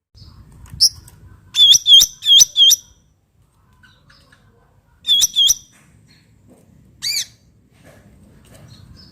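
Black-headed bulbul (cucak ranting) calling in short, sharp notes. A single note comes first, then a quick run of four, two more about five seconds in, and a last one near the end.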